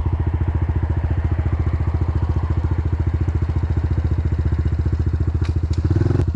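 Motorcycle engine running steadily at low revs, with an even, rapid pulse; the note changes slightly near the end.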